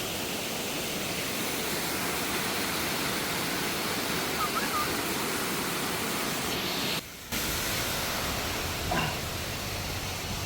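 Waterfall rushing steadily, a dense even roar of falling water, which drops out briefly about seven seconds in.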